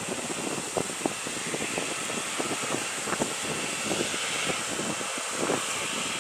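Steady cabin hiss of a Boeing 737 airliner on the ground, the air conditioning and idling engines running, with many scattered light knocks and rattles.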